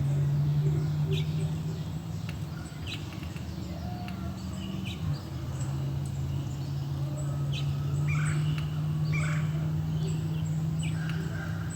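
Small birds chirping in short, high calls scattered throughout, over a steady low hum that dips briefly in pitch about five seconds in.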